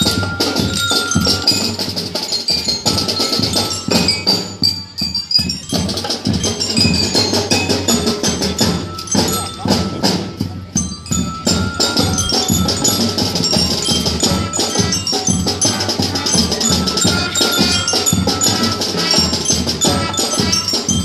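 Marching band playing at full volume, with percussion prominent among the wind parts; the music comes in abruptly at the start after a brief lull.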